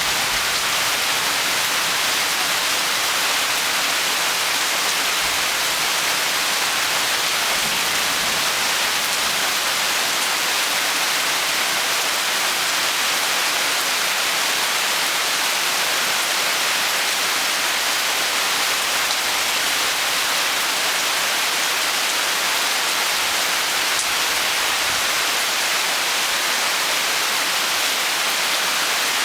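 Steady rain falling: a dense, even hiss of drops with no distinct strokes and no change in strength.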